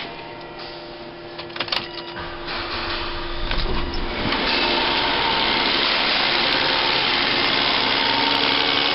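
A few clicks and knocks, then the Volvo S80's 2.9-litre inline-six starts a few seconds in and runs steadily. It runs on five cylinders: the number 2 ignition coil is pulled out of its hole, so that cylinder has a dead miss.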